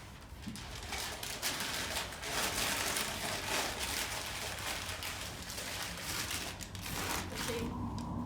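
Packing paper crinkling and rustling as a mug is rolled up in a sheet, with a dense run of crackles for most of the stretch.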